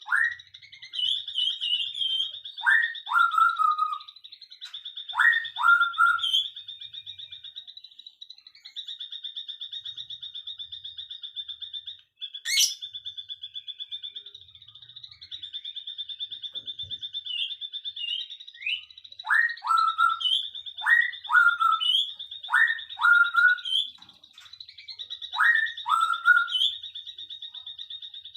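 Birds calling in short loud whistled notes that sweep down and then back up, mostly in pairs and several groups in a row, over a steady high-pitched trill of fast pulses. A single sharp click comes about twelve seconds in.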